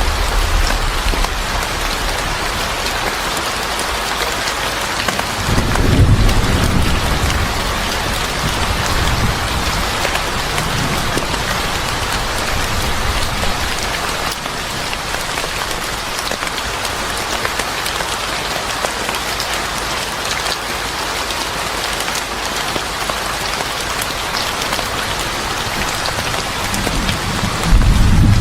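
Steady heavy rain, with a low rumble of thunder about six seconds in and another starting near the end.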